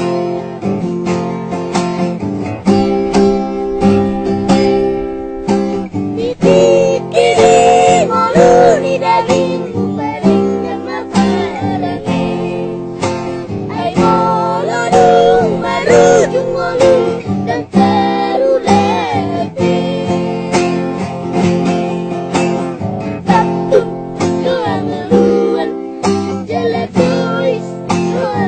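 Acoustic guitar strummed in a steady rhythm, with a child singing over it from about six seconds in.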